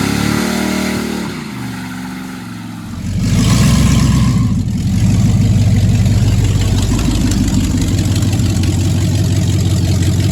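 Big block Chevy V8 in a Silverado revved, its pitch falling back over the first few seconds, then about three seconds in held at high revs with a loud, steady, rough note.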